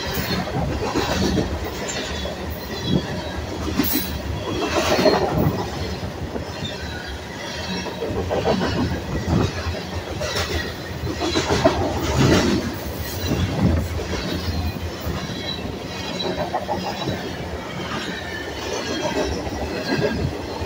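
Freight train of covered hopper cars rolling past close by: a steady rumble of steel wheels on rail, broken by repeated clacks as the wheels cross rail joints, and at times a high, wavering wheel squeal.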